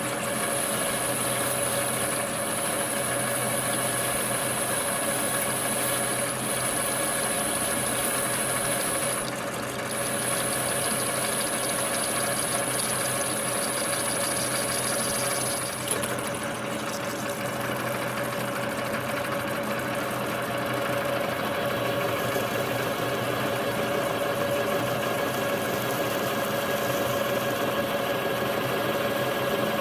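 Metal lathe running steadily while turning a steel wheel, with a high thin whine that drops out briefly about nine seconds in and stops about sixteen seconds in.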